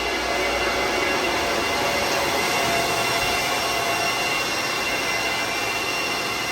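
The cooling fans of a room of cryptocurrency mining machines running together: a loud, steady rush of air with a few faint steady tones.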